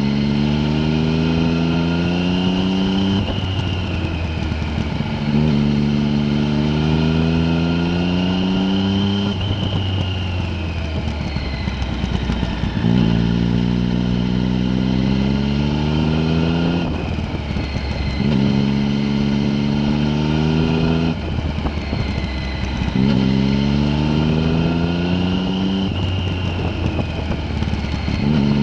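Vehicle engine pulling up a mountain pass. It revs rising in pitch for a few seconds at a time, drops back, and climbs again, over and over, as it accelerates between corners or through the gears.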